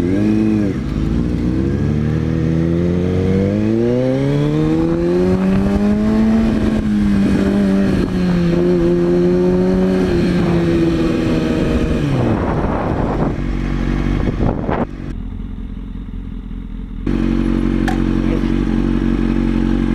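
Kawasaki ZX-6R sport bike's inline-four engine under way: the pitch rises as it accelerates and then holds steady at speed. About twelve seconds in it falls away as the bike slows, runs lower and quieter for a couple of seconds, then settles into a steady note again near the end.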